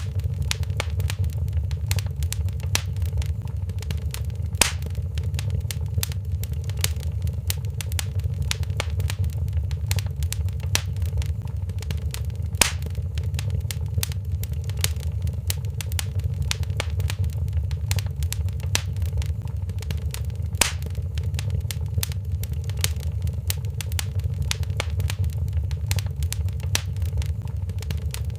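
Wood fire crackling in a fireplace: constant small crackles with three louder pops, over a steady low rumble of the flames.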